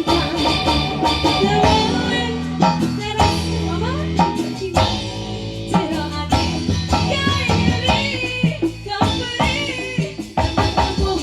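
Live band music with drums and percussion, sustained bass notes and a wavering melodic line, which may be a singing voice.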